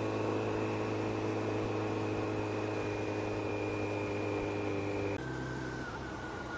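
Motorcycle engine running at a steady speed, with a steady whine over rushing noise. About five seconds in the tones drop to a lower pitch and then fall slightly, as the bike slows.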